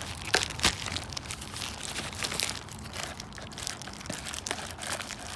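Rummaging through cardboard boxes and plastic-wrapped door hardware in a dumpster: steady crinkling and rustling with scattered sharp clicks and knocks, thickest in the first second.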